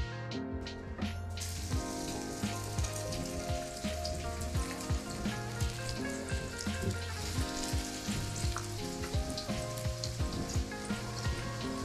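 Fish patties frying in hot olive oil in a skillet. The sizzle starts suddenly about a second and a half in and keeps crackling, over background music.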